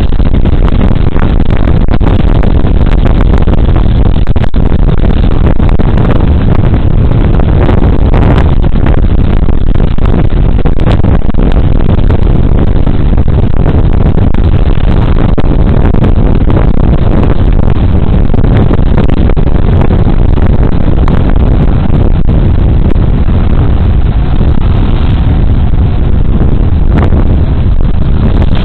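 Loud, steady wind and road noise from riding a Suzuki Burgman Street 125 scooter, picked up by a body-worn camera's microphone, heaviest in the low end, with a few small knocks now and then.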